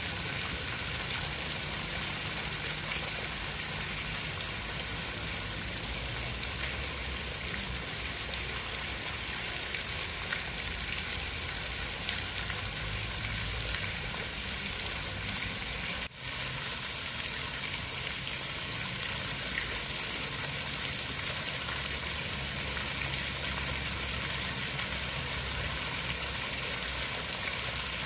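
Steady rushing water noise: an even hiss with a low rumble beneath. It drops out suddenly for a moment about sixteen seconds in.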